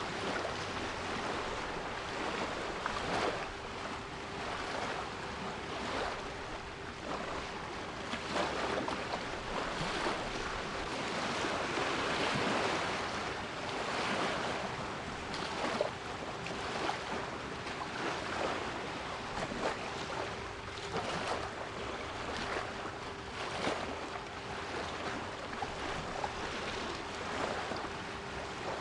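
Sea waves surging and washing in, with a steady 396 Hz pure tone held underneath. The surf swells loudest around the middle.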